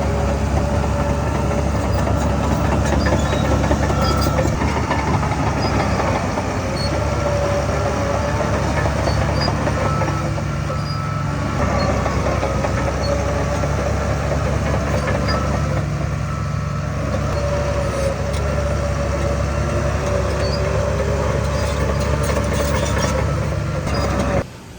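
Heavy diesel construction machinery running steadily, with a wavering whine above the engine. The sound cuts off suddenly near the end.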